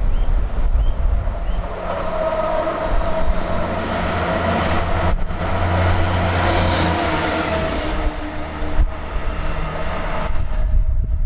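A train passing through the station at speed without stopping, a rushing roar with a steady whine that builds, peaks midway and fades about ten seconds in. Wind buffets the microphone throughout.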